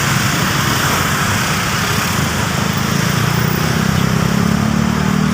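Heavy road traffic: vehicle engines running close by, with one engine's steady hum growing stronger in the second half.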